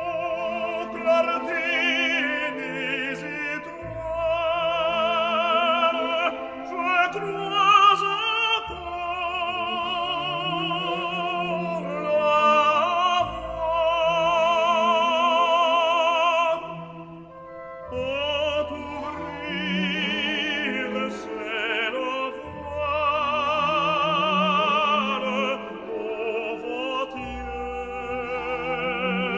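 Operatic aria: a solo voice sings long notes with wide vibrato over orchestral accompaniment, with a brief drop in level about two-thirds of the way through before the voice comes back in.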